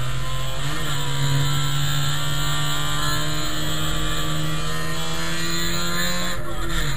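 Trabant race car's two-stroke twin-cylinder engine running under load, heard from inside the cabin. The engine note climbs about a second in, holds steady for several seconds, then drops near the end.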